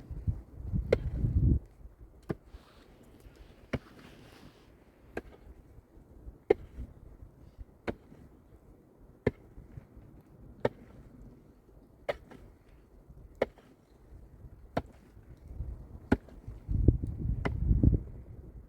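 Sharp chopping or striking blows repeating evenly, about one every second and a half. Two short spells of low, rough rumbling noise come near the start and near the end.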